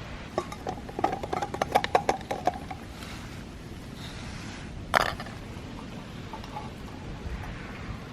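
Metal lunch things being handled: a quick run of light clinks and rattles with a faint ring for about two seconds, then one sharp click about five seconds in.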